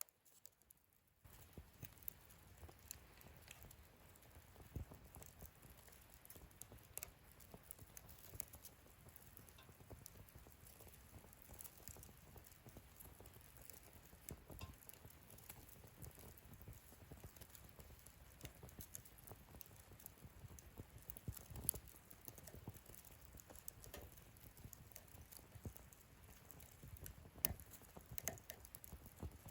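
Wood fire in a fire stand crackling softly, with a steady low hiss of flame and scattered sharp pops, two of them louder than the rest in the later part. It comes in about a second in, after a moment of near silence.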